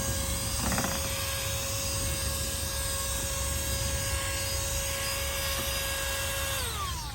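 Cordless handheld car vacuum running steadily, its small motor giving a high whine over the rush of air. Near the end it is switched off and the whine falls in pitch as the motor spins down.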